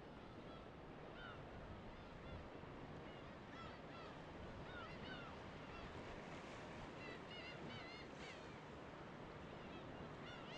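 Birds calling over a steady wash of waves: many short, arched calls, coming in quicker clusters in the second half.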